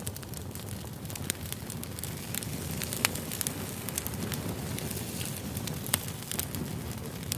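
Campfire burning: a steady low rumble of flames with frequent sharp crackles and pops of burning wood, the loudest pops about three seconds in and near six seconds.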